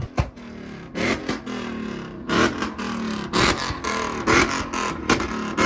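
A vehicle engine revved in a series of short blips about a second apart, its pitch falling back between them.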